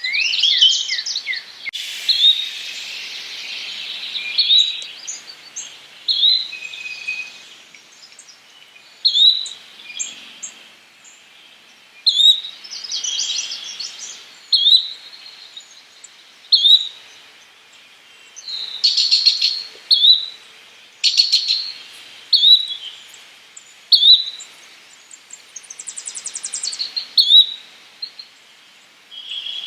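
Yellow-bellied flycatcher calling a short, rising whistled note about every one and a half to two seconds. Other songbirds' trills and chatter fill the gaps between its calls.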